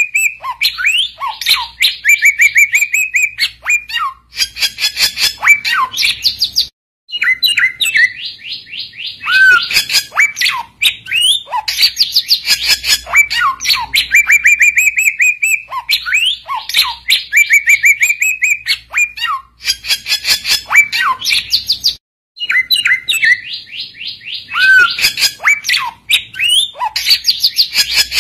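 Samyong bird singing a loud, fast, chattering song of rapid ticking notes and a steady trill. The song is a looped recording: the same sequence repeats about every fifteen seconds, with a brief drop-out at each restart.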